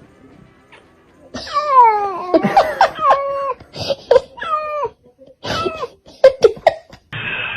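A cat meowing over and over, a string of loud, drawn-out calls that mostly slide down in pitch. Near the end a steady hissing noise cuts in.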